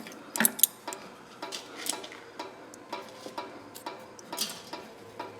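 Hand ratchet clicking steadily, about twice a second, as a rusted, just-broken-loose fastener is backed out.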